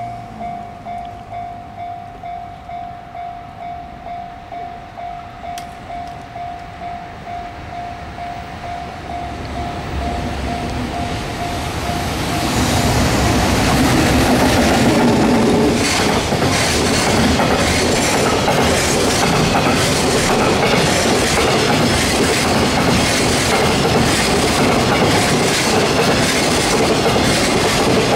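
A level-crossing warning bell rings in a steady pulsing rhythm as an EF210 electric locomotive hauling a container freight train approaches. From about ten seconds in, the train's rumble swells and the locomotive passes. A long run of container wagons follows, with a fast, continuous clickety-clack of wheels over the rail joints.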